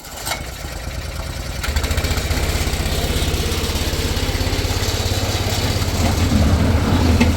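An engine running steadily with a fast, low chugging pulse, starting abruptly and growing a little louder about two seconds in.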